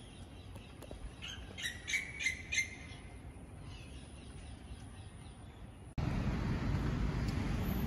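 A bird chirps a quick run of short calls about two seconds in, over a faint background. About three-quarters of the way through, the sound cuts suddenly to a louder steady rush of road traffic.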